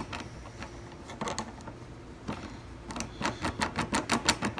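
Screwdriver forced into the dimple keyway of a gumball machine lock and twisted, metal clicking and rattling in the lock. A few scattered clicks at first, then a quick even run of about five clicks a second over the last second and a half.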